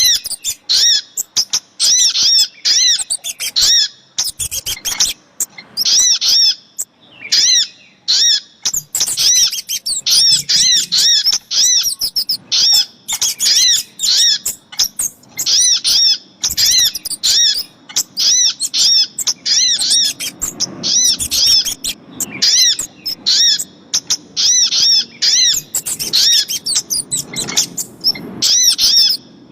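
Rapid runs of short, high, repeated chirps from small birds, with brief gaps between runs. This is a bird-trapping lure recording that mixes female crimson sunbird (sogok ontong) calls with kemade calls.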